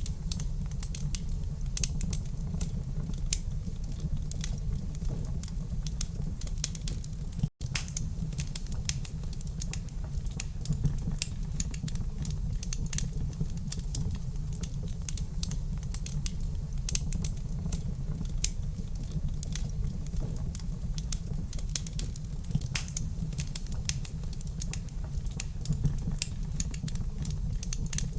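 Wood fire crackling in a fireplace: a dense, irregular stream of small pops and snaps over a steady low rumble. The sound cuts out for an instant about seven and a half seconds in.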